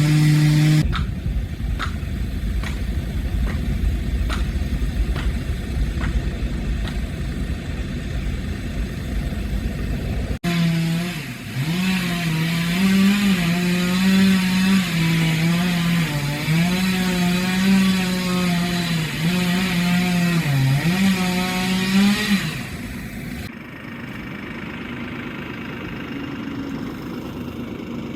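Chainsaw running at high throttle in a cut, its engine note dipping and recovering again and again as the chain bogs in the wood. Near the end it gives way to a quieter, steady engine sound.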